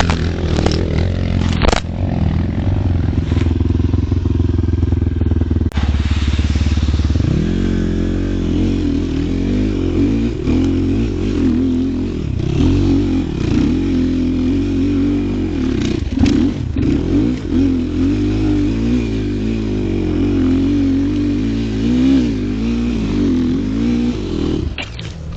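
A motor vehicle's engine running while driving. Its revs pick up about seven seconds in, then rise and fall repeatedly.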